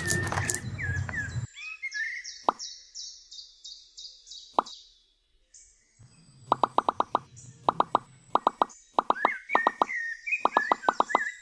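Small white pebbles clattering out of a tipped toy cart, then, after a short lull, a quick run of short plopping pops in clusters as pebbles are set down one by one along a miniature pond's edge. Bird chirps in the background.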